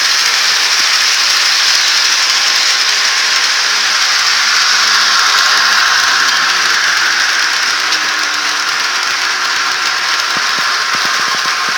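HO-scale model train running along the layout's track: a steady hissing rattle of wheels and motor, with a quick run of clicks near the end.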